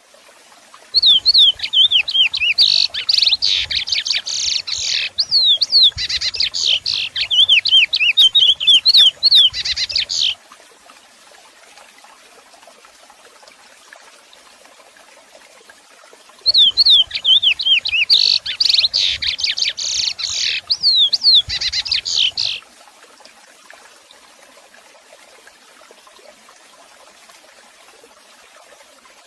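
A songbird singing long, rapid phrases of high, swooping notes, two bouts of song: one of about nine seconds starting a second in, and one of about six seconds after a pause. Faint background hiss fills the gaps.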